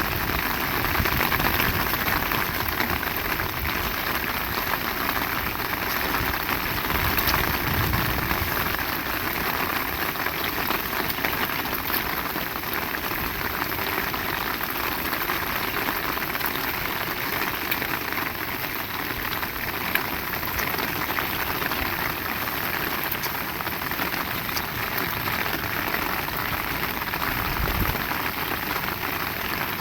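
Heavy rain falling steadily in a dense, even patter of drops, with scattered sharper drop hits and one louder tap about two-thirds of the way through.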